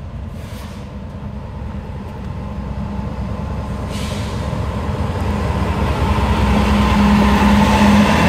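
Two GE Dash 9 diesel locomotives leading a freight train approach, their engine drone and rail rumble growing steadily louder, with a low steady tone strengthening over the last couple of seconds.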